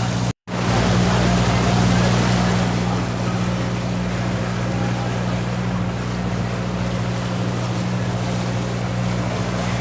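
Passenger boat's engine running steadily with a low, even hum under the rush of water and wind. The audio cuts out for a split second about half a second in.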